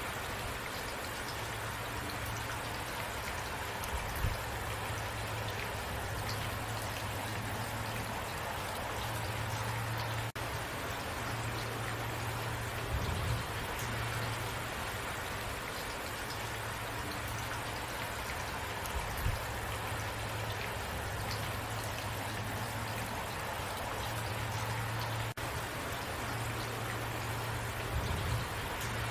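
Steady rain falling, an even hiss, with a few brief low thumps.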